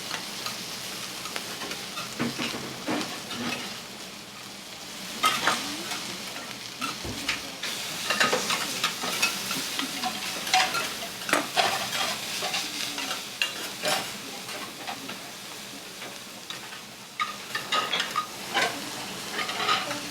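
Food sizzling on a flat iron teppan griddle, with metal spatulas scraping and clacking against the iron in quick runs of strikes, heaviest about five seconds in, through the middle and near the end.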